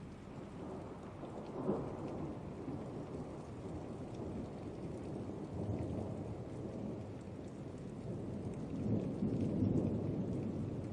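Thunderstorm: steady rain with thunder, a sharp crack about two seconds in, then low rolling rumbles that swell near the end.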